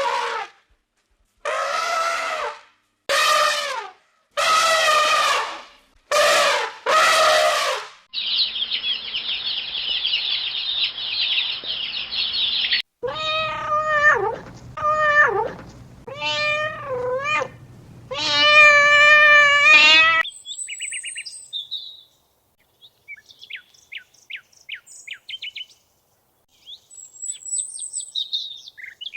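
A domestic cat meowing: a series of drawn-out meows with a few seconds of high, hissy chatter between them. Brief, high chirps follow in the last seconds.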